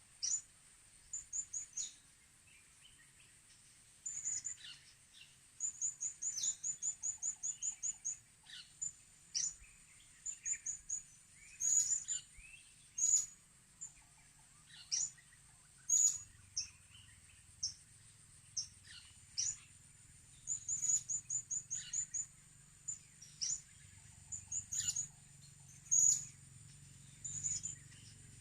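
Blue-crowned hanging parrots (serindit) calling: bursts of rapid, thin, high chirps and short downward-sweeping notes, with pauses between bursts, over a steady high-pitched drone.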